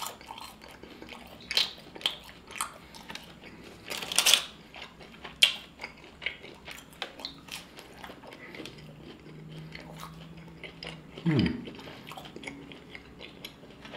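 Close-miked biting and chewing of crunchy fried popcorn chicken: irregular crunches and mouth clicks. A brief falling hum from the eater comes about eleven seconds in.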